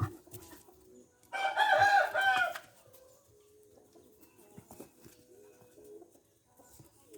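A rooster crows once, loud and about a second and a half long, with doves cooing softly in the background.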